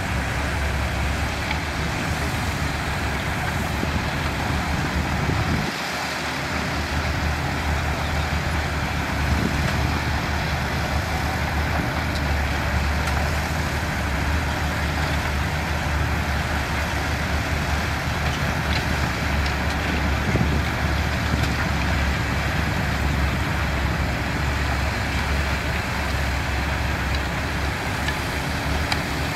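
Heavy diesel construction machinery running steadily with a deep, even engine rumble.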